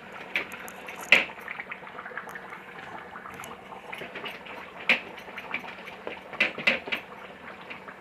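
Several sharp clinks and knocks of kitchen utensils, the loudest a little after a second in and a quick cluster near the end, over a steady low hiss.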